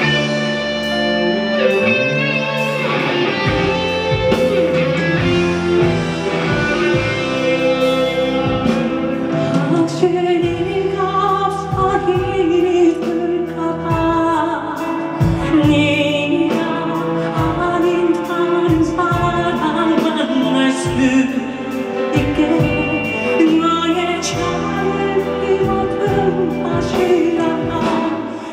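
Live band music: a pop ballad played with guitar and a melodic lead line over a steady beat.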